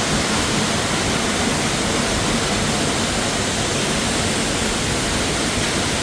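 Steady rushing of a 90-foot waterfall: even, unbroken water noise with no single events.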